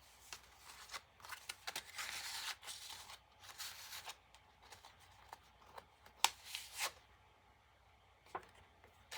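Paper and card tags rustling and crinkling as they are handled, with scattered light taps and clicks and a couple of sharper ticks a little past the middle.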